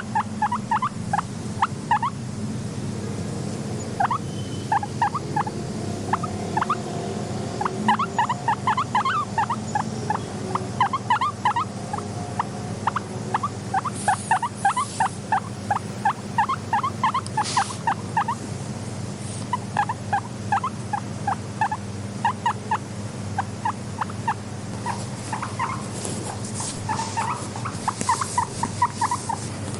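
Guinea pig squeaking: runs of short, quick rising squeaks, broken by brief pauses, over a steady low hum.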